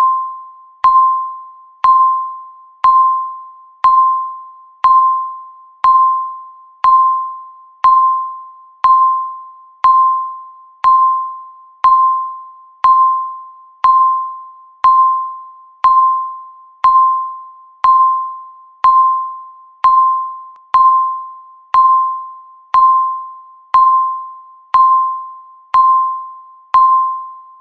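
Countdown timer's per-second tick: a single short pitched electronic beep once a second at an even pace, each struck sharply and fading quickly.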